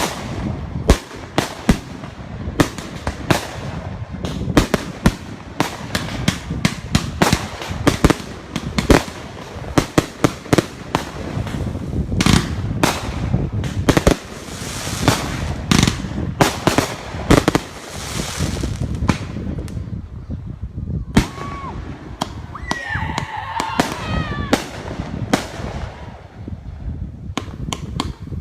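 Fireworks going off over a lake: a rapid, continuous string of sharp bangs and crackles, many overlapping, with a few short wavering tones about three-quarters of the way through.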